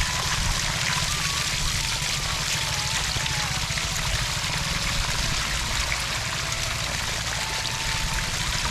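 Steady rush of running water, with a faint melody from background music wandering underneath.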